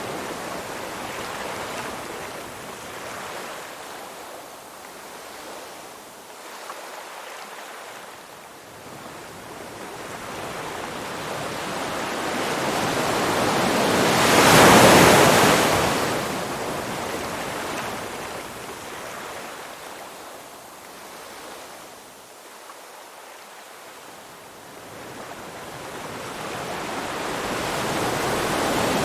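Ocean waves washing in, a rushing noise that swells slowly to a peak about halfway through, falls away, then builds again near the end as the next wave comes in.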